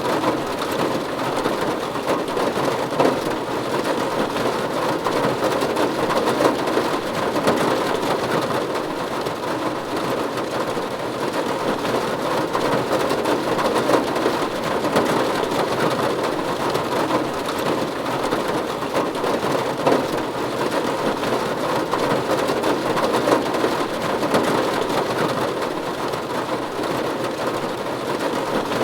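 Steady rain falling on a roof, a dense even patter of drops without letup.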